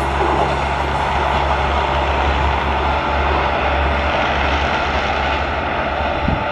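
A passenger train hauled by a WAP-7 electric locomotive passes at speed, with a steady rushing rumble and a low hum throughout.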